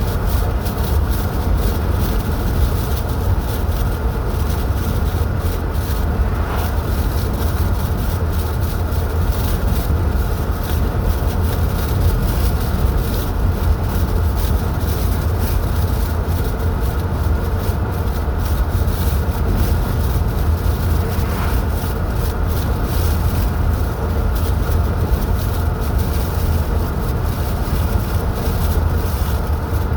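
Steady road noise of a car driving: a continuous heavy low rumble of engine and tyres, without change.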